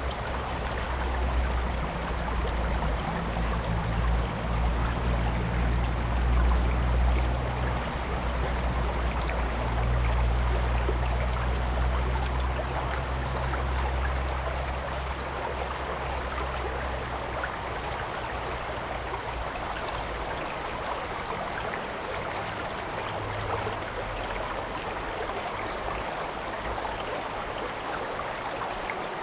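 Stream water flowing and rushing over rocks in a steady, even wash, with a low rumble underneath that fades out a little past halfway.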